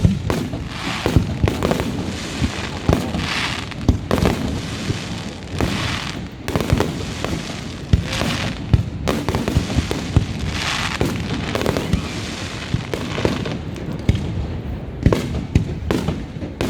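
Aerial fireworks going off in quick succession: a steady run of booms and bangs, with two stretches of dense crackling about three seconds in and again near ten seconds.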